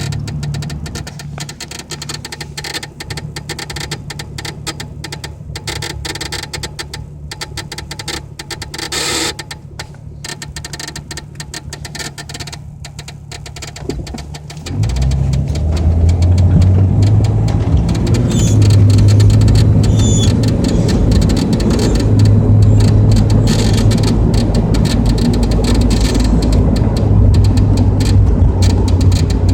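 1999 Jeep Cherokee XJ heard from the cabin, with an odd sound from the dash: a steady low hum with a fine ticking texture, then about halfway through a much louder low rumble comes in suddenly and holds.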